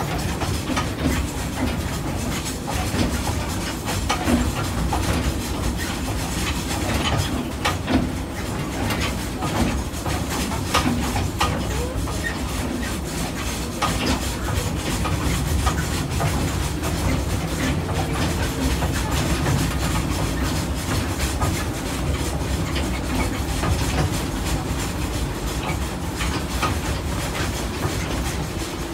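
Narrow-gauge passenger train running along its track, heard from on board: a steady rumble with scattered clicks and knocks from the wheels on the rails.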